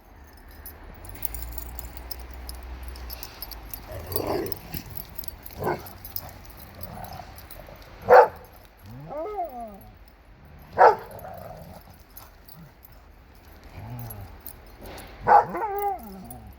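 Dogs barking and yipping in play, single sharp barks every few seconds with the loudest about eight and eleven seconds in, a short whine between them, and a quick run of barks near the end.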